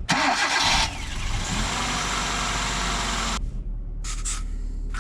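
Hyundai hatchback engine just started, running with a loud rush of noise for the first three seconds or so, then settling to a steady low idle.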